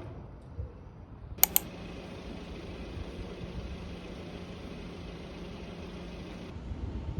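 Two quick sharp clicks, then a small motor running with a steady hum for about five seconds before cutting off abruptly.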